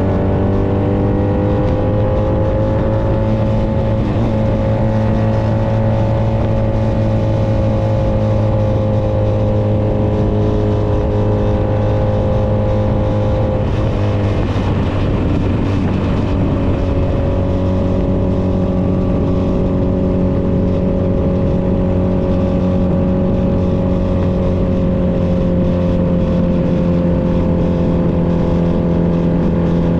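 Honda Nighthawk 250's air-cooled parallel-twin engine running at a steady cruising pace. Its pitch rises slightly in the first few seconds, breaks up briefly about fourteen seconds in, then holds steady and eases a little near the end.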